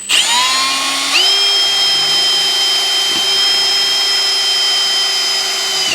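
Power drill running a Spectral stepped-point bit into galvanized steel pipe, a steady whine that steps up in pitch about a second in and stops near the end. The bit bites and grabs hard in the steel.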